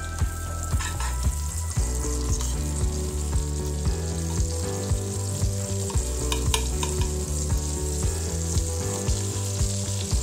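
Butter sizzling as it melts and fries in a non-stick frying pan, with a metal spoon stirring it and scraping the pan, giving scattered clicks.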